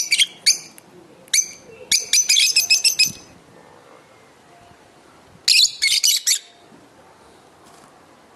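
Lovebirds chirping shrilly in rapid bursts, four clusters of quick chirps separated by short pauses.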